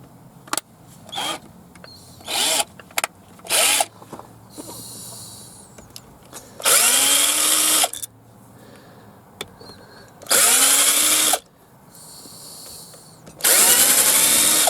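Power drill with a Torx bit backing out the tight window-motor mounting screws: a few short bursts, then three longer runs of about a second each, its whine rising as it spins up each time.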